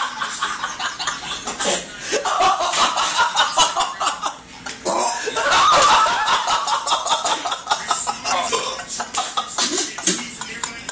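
Men laughing hard, with coughing and gagging from one who has just downed a shot of grease.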